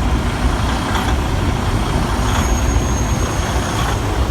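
Freightliner Cascadia semi truck's diesel engine idling, with a slight surge in the idle that the buyer says many Freightliners have.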